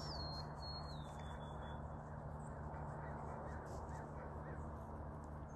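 A bird calling outdoors: a thin whistle that steps down in pitch over about the first two seconds, over a steady low hum.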